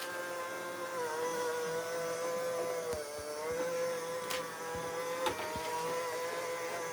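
Small robot vacuum cleaner running, its motor giving a steady whine that wavers slightly in pitch, with a couple of sharp clicks about four and five seconds in.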